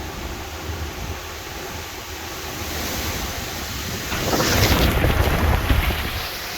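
A strong gust of storm wind swells about three seconds in, is loudest near the middle to the end, then eases, buffeting the microphone with a low rumble.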